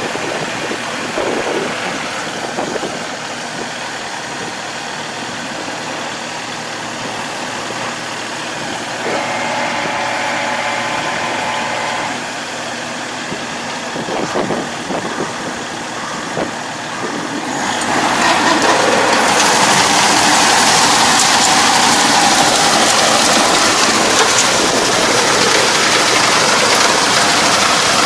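A farm machine's engine running steadily, then growing clearly louder about two-thirds of the way through and staying at the higher level.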